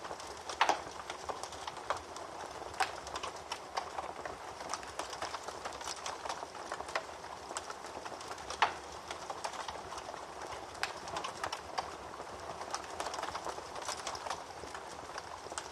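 Wood fire crackling in a fireplace: a steady soft hiss with irregular pops and snaps, a few of them louder.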